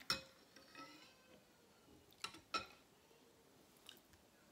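A few light clinks of an eating utensil against a bowl: one at the start, two in quick succession about two seconds in, and a faint one near the end, each ringing briefly.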